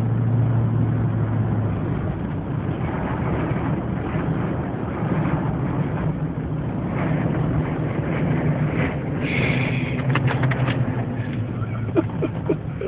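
Car driving in a wind storm, heard from inside the cabin: a steady engine and road drone under a rushing wind noise, with a few sharp clicks and knocks near the end.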